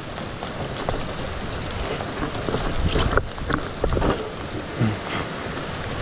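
Steady rain falling, with scattered knocks and rattles through it.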